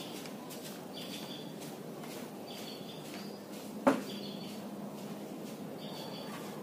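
A bird chirping over and over, a short high call about every second and a half, over a steady background noise. A single sharp knock a little before the four-second mark is the loudest sound.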